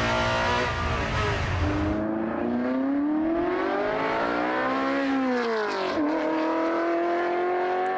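Muscle car engine running: steady at first, then its pitch climbs for about three seconds as it revs up, drops sharply, and holds steady again near the end.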